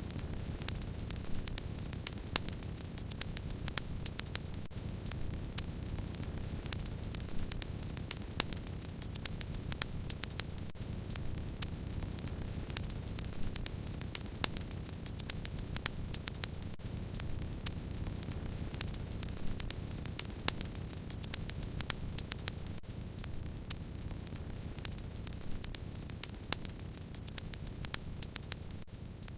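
Wood fire crackling: frequent irregular sharp crackles and occasional louder pops over a steady low rumble of burning.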